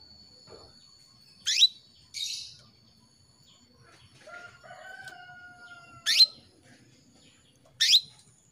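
Female canary calling to a male: short, sharp call notes that sweep steeply upward, three loud ones a few seconds apart, with a buzzier chirp just after the first. A fainter, lower, drawn-out call sounds around the middle.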